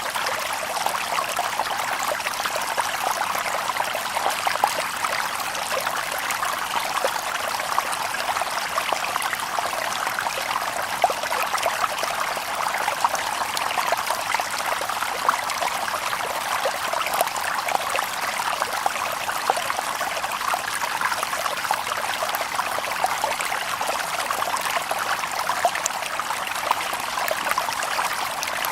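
Shallow river water babbling over stones, a steady splashing and trickling with many small, quick splashes.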